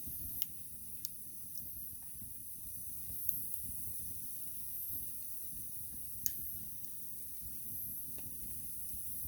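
Small wood fire burning in a twig-burning camp stove, giving off a few sharp crackles and pops over a steady hiss.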